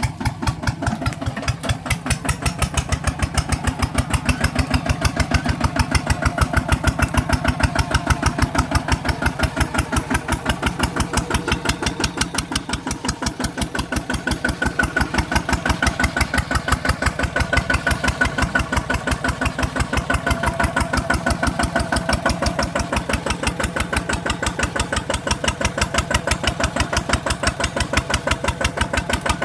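ZT 155 Plus tractor's engine running steadily while pulling a plow, with a rapid, even chugging beat that swells and eases slightly.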